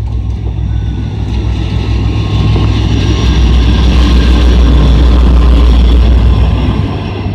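EMD GT-22CW-3 diesel locomotive passing close with a passenger train, its engine running with a loud, deep rumble. The rumble swells to a peak a few seconds in and eases off near the end.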